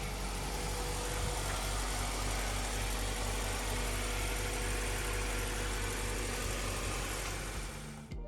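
Acura Integra's four-cylinder engine running steadily, fading out near the end.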